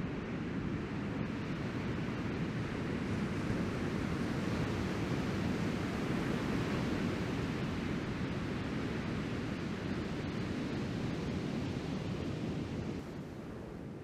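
Steady rush of ocean surf mixed with wind buffeting the microphone. The higher part of the hiss drops away about a second before the end.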